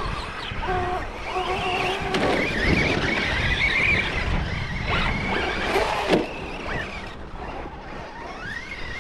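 Electric motors of radio-controlled off-road trucks whining, the pitch rising and falling with the throttle, over a rough low rumble.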